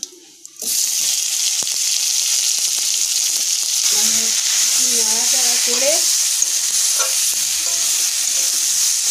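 Hog plums hitting hot oil in a steel karahi: a loud sizzle starts suddenly about half a second in and runs on steadily as a spatula stirs them, with a few sharp scrapes of the spatula on the pan.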